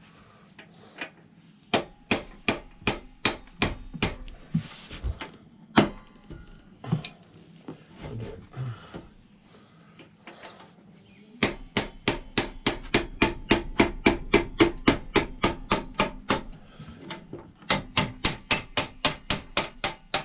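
A hammer striking repeatedly in three runs of quick, even blows, about three to four a second, with a few scattered knocks between them.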